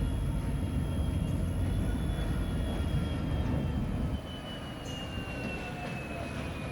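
Diesel locomotive running with a high turbocharger whine over its low engine rumble. About four seconds in, the rumble drops off and the whine slowly falls in pitch.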